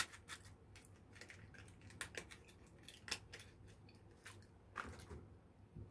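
Faint, irregular clicks and snaps of a mouth chewing a piece of chocolate.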